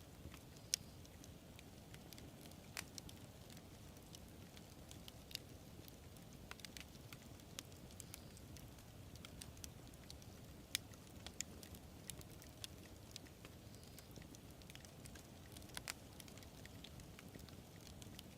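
Campfire burning with a low steady roar and scattered sharp crackles and pops of burning wood at irregular intervals.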